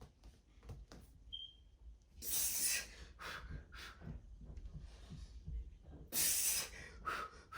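A man breathing hard from the exertion of a set of diamond push-ups: two loud, long exhales, one about two seconds in and one about six seconds in, with quieter short breaths between.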